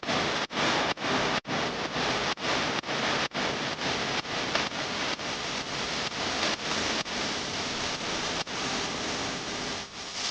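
Rhythmic scratchy strokes on paper, about two a second, each a short hiss with a brief gap between strokes, as in colouring a drawing.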